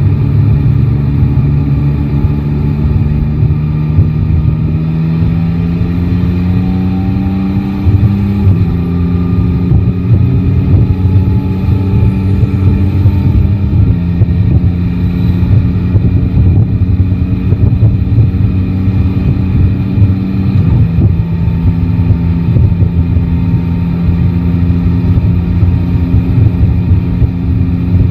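Yamaha Tracer 9 GT's three-cylinder engine running under way, its note rising gently over the first eight seconds, then settling at new pitches in a few steps, over a steady low rumble.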